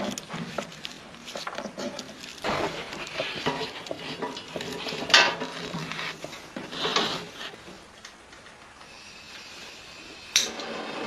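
Clinks and knocks of cookware and utensils being handled, with a sharper clank about five seconds in and another near the end.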